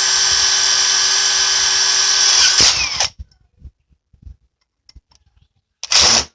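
Cordless brushless impact wrench (AEG BSS18C 12Z, 18 V) set to Auto mode, running for about three seconds, winding up in pitch at the start and down at the stop. After a few faint clicks comes one short second burst near the end.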